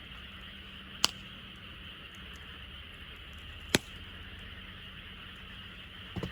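Wood fire crackling, with two sharp pops about a second and nearly four seconds in and a short run of crackles near the end, over a steady high-pitched chorus of frogs.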